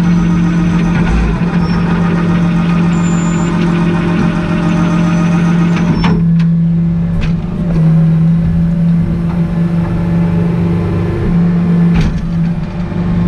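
Heavy truck engine running steadily with a strong, even low hum, with a few sharp clicks about six seconds in and again near the end.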